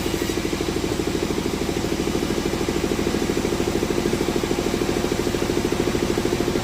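An engine running steadily at an even speed, with a rapid regular pulse.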